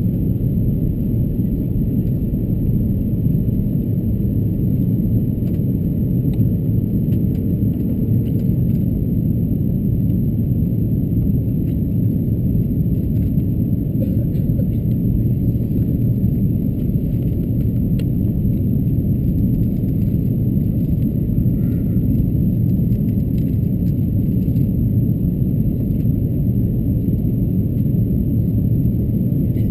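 Airbus A330-223 cabin noise in flight: a steady, even low rumble of engines and airflow.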